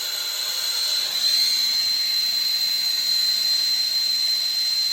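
Soldering torch flame hissing steadily with a thin, high whistle while a pipe joint is soldered; it grows a little louder about a second in.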